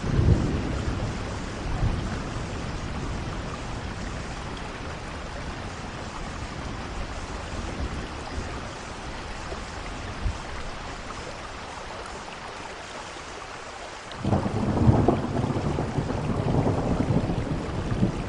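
Steady rainfall with thunder: a short low crack of thunder right at the start, then a long rolling rumble that builds about three-quarters of the way in and keeps going.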